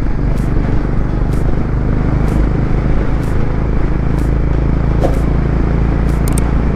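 Motorcycle engine running steadily at cruising speed while riding, a constant low rumble with road noise.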